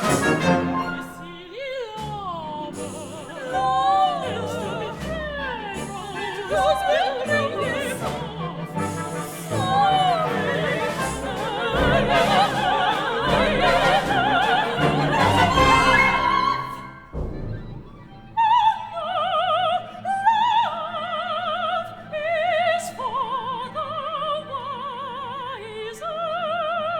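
Operatic singing with instrumental accompaniment: a vibrato-rich vocal line that slides and bends through a melismatic passage, then, after a brief dip about 17 seconds in, high held notes without words that step up and down.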